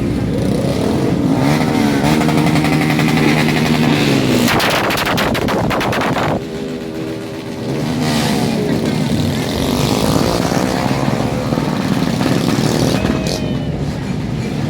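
Sport motorcycle engines revved hard several times, the pitch climbing and falling. From about four and a half to six seconds in comes a stretch of rapid, even stuttering, the sound of an engine held on its rev limiter.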